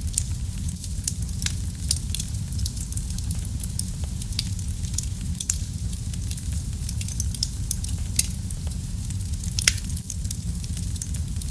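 Fire crackling in a fireplace: a steady low rumble of the flames with many small, sharp pops, and a louder snap about eight seconds in and another shortly after.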